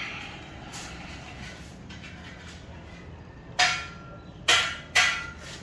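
Hammer blows with a metallic ring: a light knock at the start, then three loud strikes near the end, the last two in quick succession.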